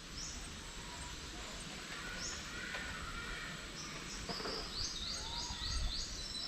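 Birds calling: single high chirps now and then, then a quick run of about six high chirps near the end, over a faint steady outdoor background.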